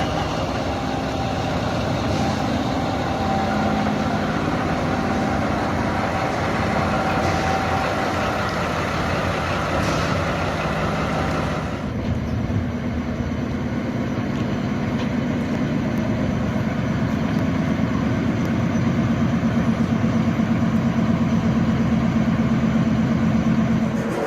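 Diesel locomotive engine running steadily. The sound changes abruptly about halfway through, as at a cut, and then grows a little louder near the end.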